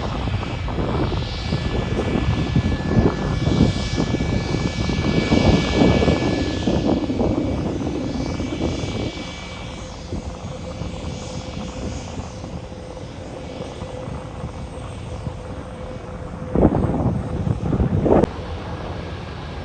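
Airliner's jet engines rumbling with a steady high whine as the plane passes, loudest in the first half and dying away about nine seconds in. Two brief louder rumbles come near the end.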